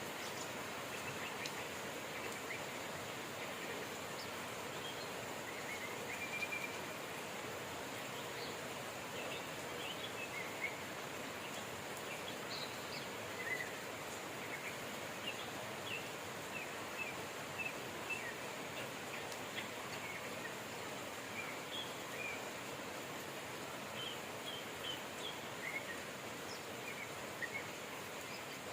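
Steady rain hiss with small birds chirping in short, scattered calls throughout.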